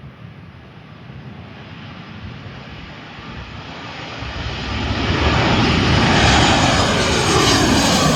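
Jet airliner passing close, its engine noise building steadily and then much louder about five seconds in, with sweeping, shifting tones near the end as it goes by.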